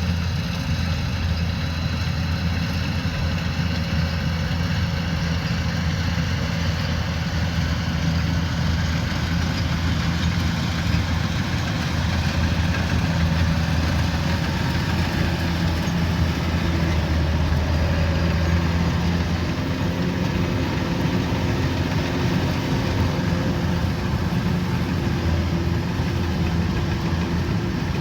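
Kubota combine harvester's diesel engine running steadily, a little louder through the middle stretch.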